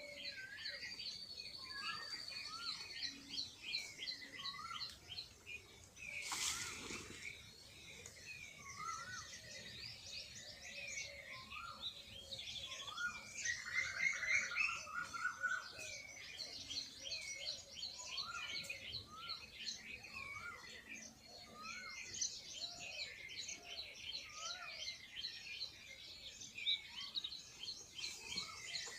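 Many small birds chirping and calling together, short high chirps repeated over and over with some lower rising notes. There is a single brief knock about six seconds in.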